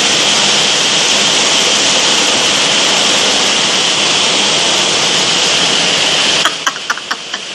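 Storm wind blowing hard, a steady loud rush. It drops off suddenly about six and a half seconds in, leaving a few sharp clicks.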